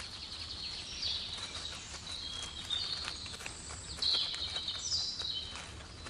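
Forest ambience with a small bird's high chirping calls: short phrases about once a second, the loudest near four and five seconds in, over faint scattered clicks and rustling.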